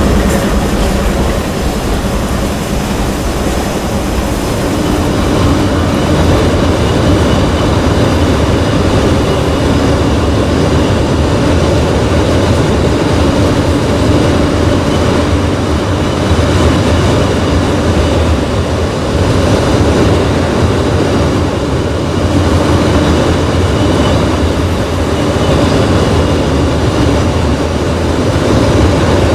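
Freight train cars rolling past steadily, a loud continuous rumble of wheels on rail.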